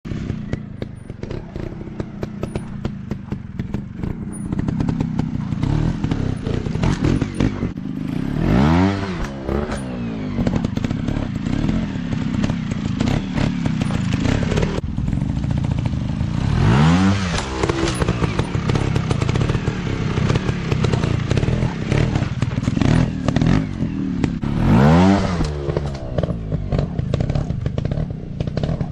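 Dirt bike engines running with a constant clatter, revved up and back down three times, about eight seconds apart.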